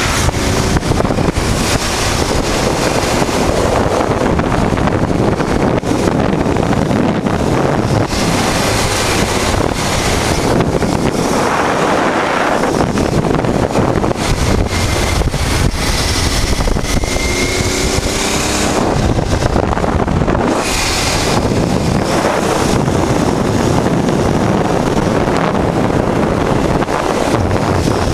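Wind rushing over the microphone of a 1988 Honda Transalp riding at road speed, with the bike's V-twin engine running steadily underneath.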